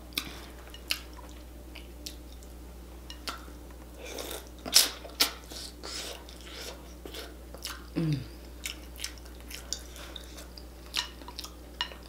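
Close-up wet chewing and lip smacking while eating sauce-drenched boiled potatoes, in irregular clicks and squelches, loudest about halfway through. A short hummed "mm" comes about eight seconds in.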